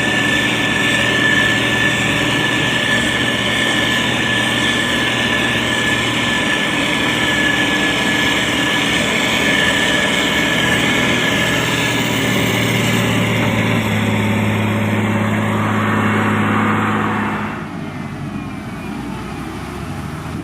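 Heavy road-construction machine's diesel engine running steadily, with a high steady whine over it for the first part. About seventeen seconds in the sound drops abruptly to a quieter rumble.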